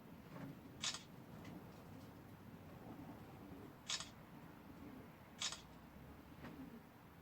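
Camera shutter clicking three times, a sharp short click each: photographs being taken.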